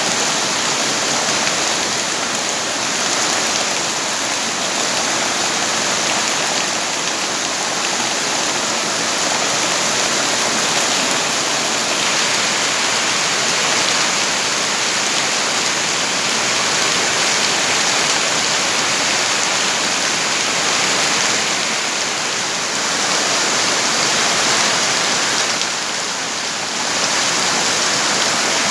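Steady heavy rain, a dense even hiss that swells and eases a little over the span.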